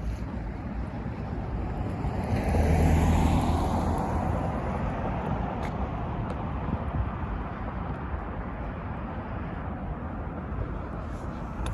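Street traffic: a motor vehicle passes close about three seconds in, its engine and tyre noise swelling and then falling away in pitch, over a steady hum of traffic and light wind.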